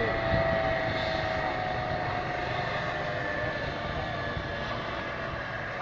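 Helicopter running with a steady rotor and turbine roar and a thin high whine that drops slightly in pitch while the sound grows gradually quieter.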